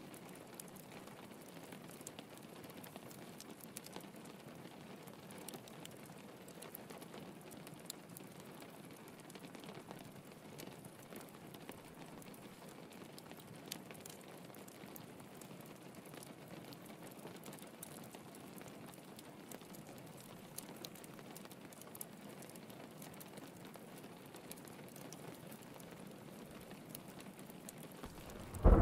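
Steady rain pattering on a window, mixed with the faint crackle of a wood fire in a fireplace, with scattered small ticks and pops.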